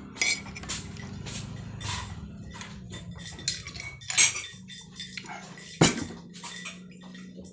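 Cutlery and dishes clinking: a string of short, sharp clinks and knocks, the loudest about four and six seconds in.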